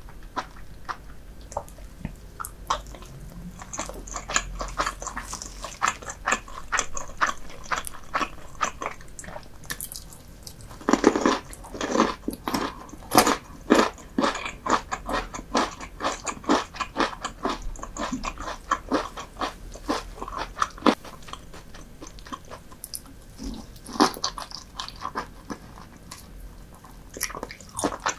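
A person chewing and biting food close to the microphone, with many short wet clicks and crunches from the mouth. The chewing is busiest and loudest about a third of the way in, then settles to a steadier, softer run of mouth clicks.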